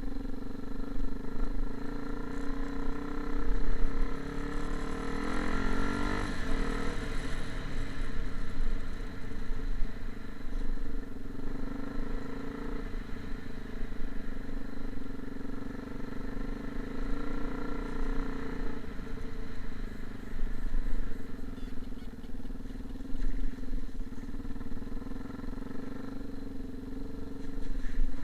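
A motor running steadily, its pitch shifting slightly a few times.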